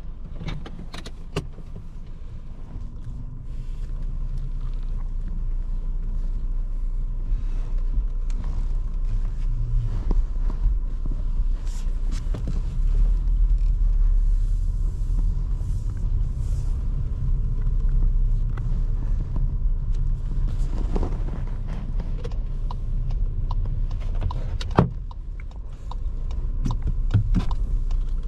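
In-cabin engine and road noise of a 2023 Škoda Kamiq 1.0 TSI, its three-cylinder turbo petrol engine and tyres making a steady low rumble while driving. The rumble grows louder a few seconds in. Light clicks are scattered through it, with one sharp knock near the end.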